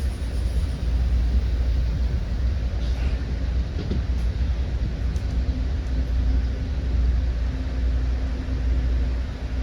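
Commuter train running on the rails, heard from inside the passenger car: a steady low rumble, with a faint steady hum joining about halfway through.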